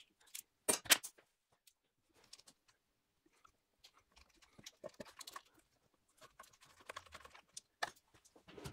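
Scattered clicks and knocks of hand tools and metal parts being handled, with the loudest pair about a second in and softer clinks and rustling after.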